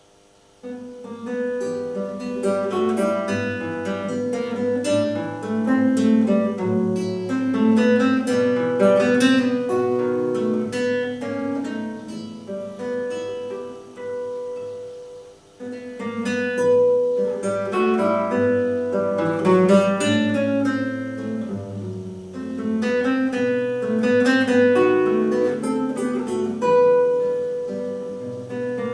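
Solo classical guitar playing a slow lyrical piece, plucked melody over a moving bass line. It starts out of silence just after the beginning, with a short break about fifteen seconds in.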